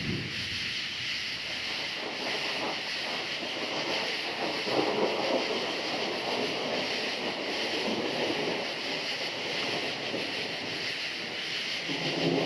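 Thunder rolling, swelling about four seconds in and again near the end, over a steady chorus of crickets.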